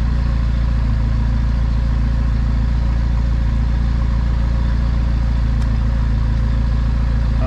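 Car engine idling: a steady, even, low drone that does not change.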